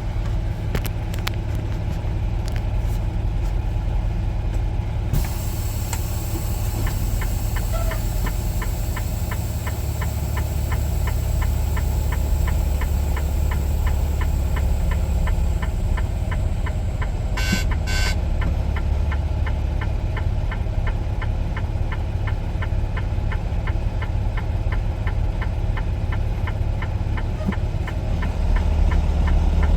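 Semi truck's diesel engine running at low speed, a steady low hum with a fast, even ticking over it. Two short high-pitched bursts sound close together about halfway through.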